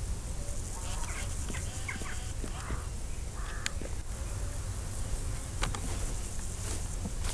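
A bird calling in a quick series of short, squawky notes for a few seconds, over a steady low wind rumble on the microphone, with a couple of sharp clicks after the calls stop.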